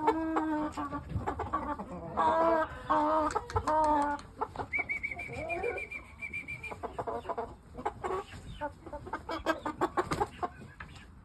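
Chickens clucking, with a run of drawn-out hen calls in the first four seconds, then a high rapid trill for about two seconds, over scattered clicks and rustles.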